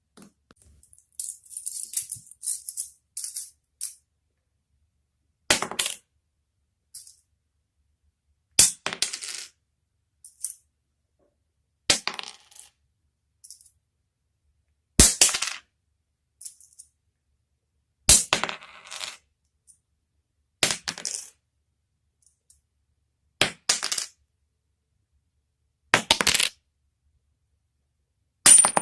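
A series of sharp clinks of a small hard object striking, each with a brief high ring, coming about every three seconds between stretches of complete silence. A quick run of smaller clicks comes near the start.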